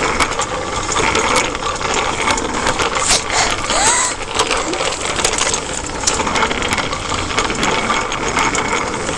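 Bicycle rear freewheel ticking rapidly as the bike coasts, over a steady rushing noise.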